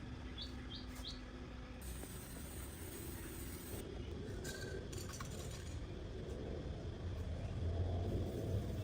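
A steady low rumble with a few short bird chirps about half a second to a second in, swelling to its loudest near the end.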